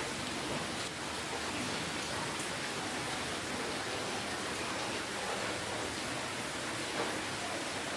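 Steady rainfall, an even hiss of drops with a few faint patters of individual drops.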